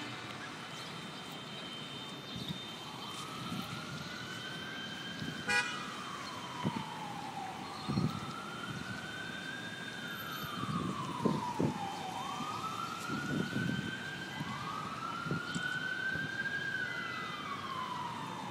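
Emergency vehicle siren wailing, a slow rise and fall repeating about every three and a half seconds, starting about three seconds in. Scattered knocks and thumps sound beneath it, with one sharp click about five seconds in.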